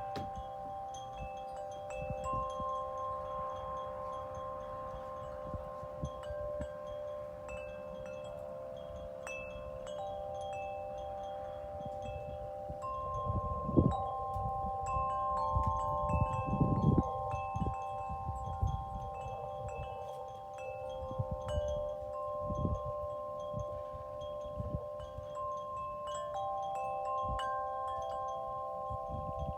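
Wind chimes ringing in the breeze, several long notes overlapping and fading in and out. Low gusts of wind hit the microphone, strongest at about 14 and 17 seconds.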